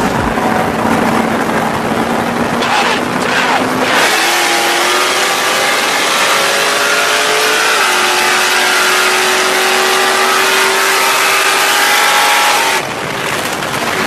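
Cars in a rolling street race from 50 mph: an engine cruises at a steady note, then goes to full throttle about four seconds in and its pitch climbs, with a gear change about eight seconds in before it climbs again, over heavy wind and road noise. Near the end the engine sound drops off suddenly as the throttle is lifted.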